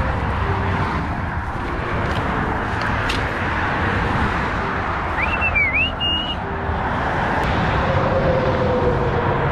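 Steady highway traffic noise, an even roar of passing vehicles. A short high, wavering chirp sounds a little past halfway.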